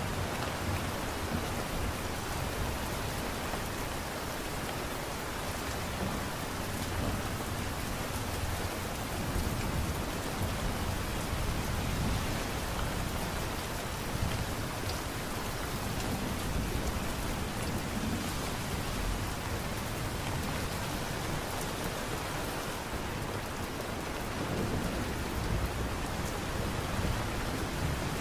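Steady light rain falling, an even hiss of drops with a soft low rumble underneath.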